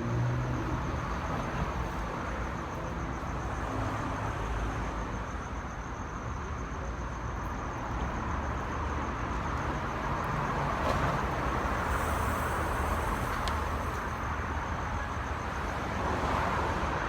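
Steady road traffic noise from passing cars, a continuous rumble with no distinct events.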